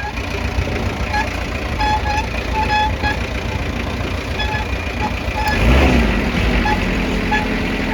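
Daewoo excavator's diesel engine running steadily, growing louder and heavier for about two seconds from five and a half seconds in, as if under load. Short high beeps sound now and then.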